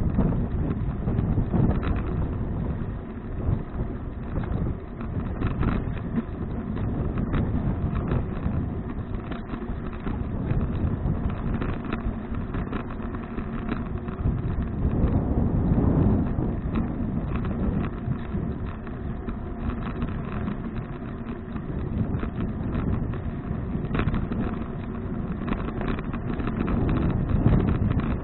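Wind buffeting an action camera's microphone during a bicycle ride, heard as a steady low rumble that swells now and then.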